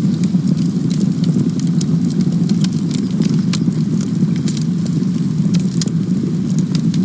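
Campfire burning: burning wood crackling and popping in frequent, irregular sharp snaps over a steady low rumble of the flames.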